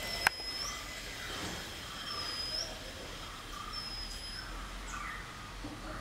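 A bird repeating a high, thin whistled note about every two seconds, each a short level whistle that turns up at the end, over fainter lower chirps. A single sharp click comes just after the start.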